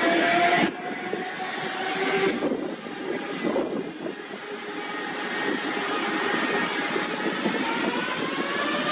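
Jet airliner engines whining over a steady rush of noise, the whine rising in pitch in the second half.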